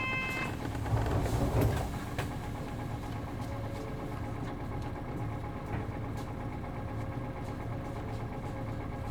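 Isuzu route bus's MD92TJ diesel engine idling steadily, heard from inside the cabin. There is a short electronic chime right at the start and a brief louder rush of noise about a second in.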